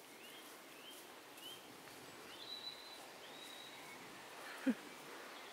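Wild birds chirping over quiet field ambience: short rising chirps every half-second or so, a couple of them drawn out a little longer. About three-quarters of the way through, a brief, louder sound slides quickly downward in pitch.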